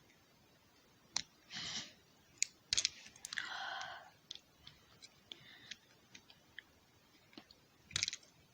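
Small plastic toy-train parts being handled: scattered clicks and taps, two brief scraping rustles, and a quick cluster of louder clicks near the end.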